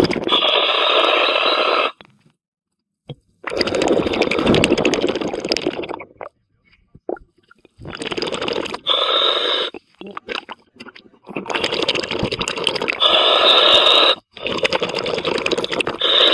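Scuba diver breathing through a regulator underwater: a regular cycle of loud hissing breaths and bubbling exhalations, each lasting about two to three seconds, with short pauses between them.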